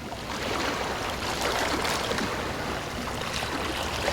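Moving water, a steady rushing and splashing that swells slightly about a second and a half in.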